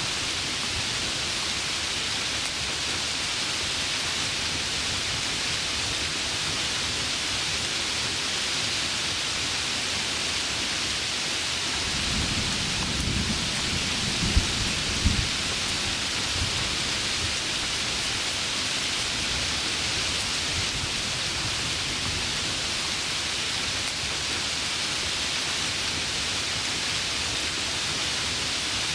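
Heavy rain falling steadily, with a roll of thunder rumbling from about twelve seconds in, cracking sharply twice near its peak before fading.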